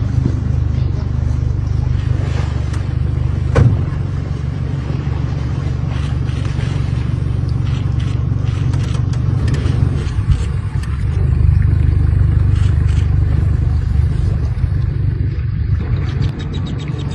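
Vehicle engine running steadily with a low hum, with scattered small clicks and one sharp knock about three and a half seconds in.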